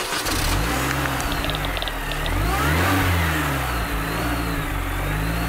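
Car engine revving, its pitch rising and falling several times, with a few light clicks about a second and a half in.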